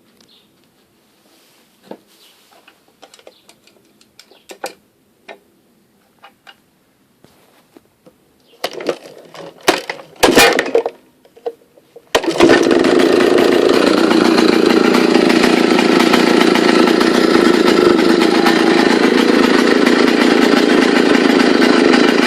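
Vintage Solo 100 cc two-stroke chainsaw being started: a few light clicks, then a short run of loud rough bursts as it is pulled over and fires, and about twelve seconds in it catches and runs steadily.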